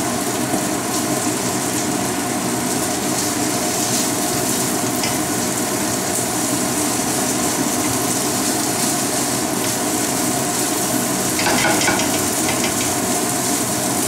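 Sliced char siu (Chinese barbecue pork) sizzling steadily in a little oil in a frying pan while a spatula stirs it, with a short louder patch near the end.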